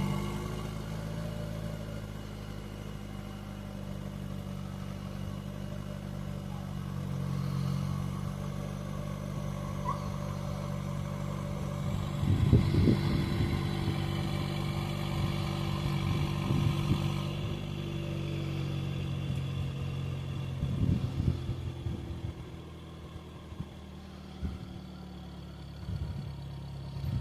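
A 2.7-litre TurboMax turbocharged four-cylinder engine in a GMC Sierra 1500 idling steadily just after a cold start. A few irregular low bumps come through over the idle.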